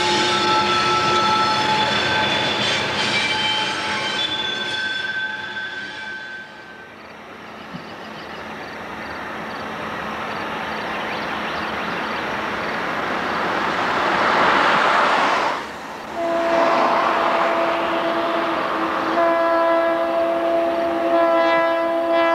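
Loaded coal hopper cars rolling past with steel wheels squealing. Then a GE B23-7R (Super 7) diesel locomotive approaches, its rumble building, and about two-thirds of the way in its air horn starts a long blast that is still sounding at the end.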